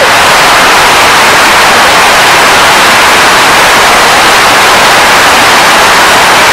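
Loud, steady hiss like white noise, with no distinct events in it, cutting off suddenly at the end.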